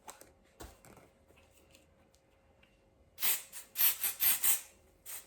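A hand spray bottle sprayed in a quick series of about six short hissing spritzes, starting about three seconds in, after a couple of faint handling clicks.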